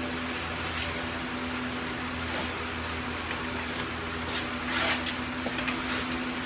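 A steady electrical hum with an even hiss behind it, broken by a few soft rustles and clicks.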